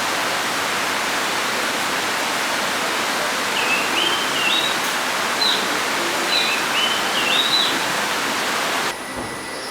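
A songbird whistles two short phrases of clear notes that step upward in pitch, over a loud, steady rushing hiss of forest background. The hiss drops away abruptly near the end.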